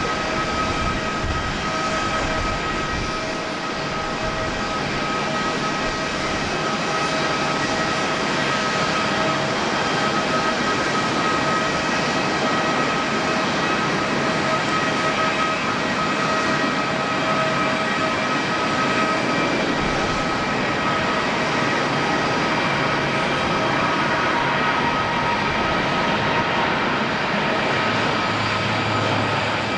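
Jet engines of a Boeing 747-8 running steadily: a wide rushing noise with a steady high whine over it.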